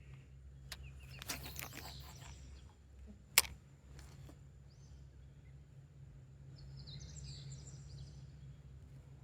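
Outdoor ambience with a steady low hum and birds chirping, most clearly a little before the end. A sharp click about three and a half seconds in is the loudest sound, after a short patch of faint crackling.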